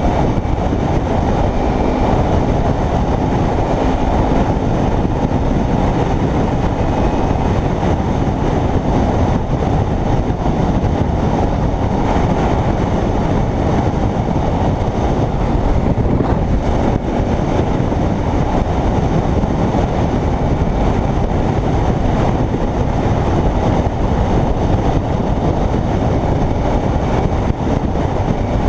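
Steady wind rush and road noise from riding a Kawasaki Ninja 300 motorcycle, with its parallel-twin engine running under the noise.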